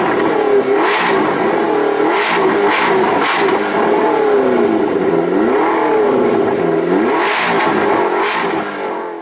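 A supercar engine revving up and down again and again, its note swinging in pitch about once a second, fading out near the end.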